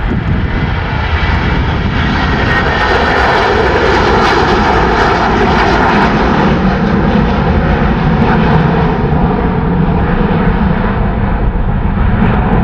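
Airbus A350-900's Rolls-Royce Trent XWB jet engines at takeoff thrust: a loud, steady rush of engine noise with a deep rumble underneath, growing slightly louder about two seconds in.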